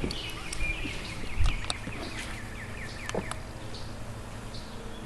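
Birds chirping in runs of quick falling notes, over a low steady hum, with a few faint clicks.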